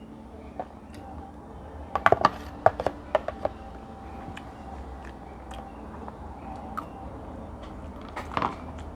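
Cutlery clinking against a plate while eating, a quick cluster of sharp clicks about two seconds in, over a steady low hum.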